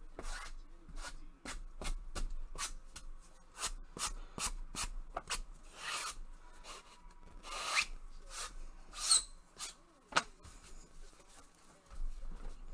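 Trading-card packaging and cards being handled: an irregular run of quick rubbing, sliding and scraping sounds, with a few louder scrapes and taps.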